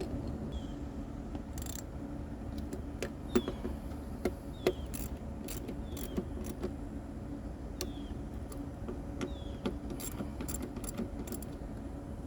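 Scattered metallic clinks and taps of hand tools and engine parts, a dozen or so irregular knocks, the loudest about three to five seconds in, during work refitting an engine's valve cover.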